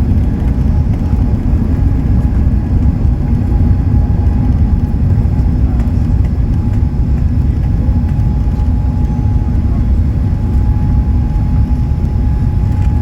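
Airbus A380 cabin noise: a loud, steady low rumble of engines and airflow heard from inside the cabin, with a faint steady whine above it.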